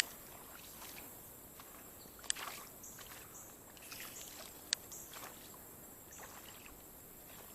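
Someone wading through creek water: irregular sloshing splashes, with three sharp clicks about two and a half seconds apart.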